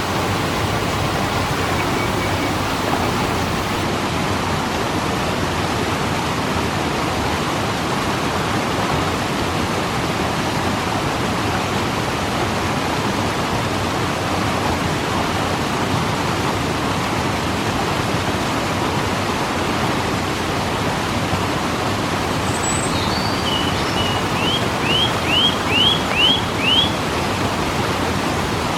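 Steady, unbroken rush of a waterfall. Near the end a bird calls briefly, a quick run of about six short chirps.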